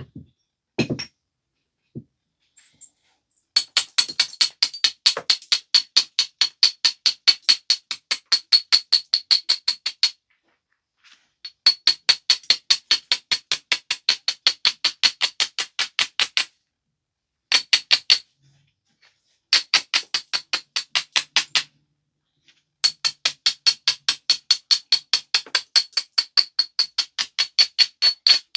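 A flint biface's edge being worked with quick, light strokes: runs of sharp clicks with a high, glassy ring, about six a second, stopping and starting several times with short pauses between the runs.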